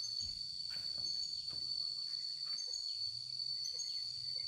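Insects, crickets or cicadas, holding one steady high-pitched drone, with a short higher chirp repeating about once a second. A low hum runs underneath.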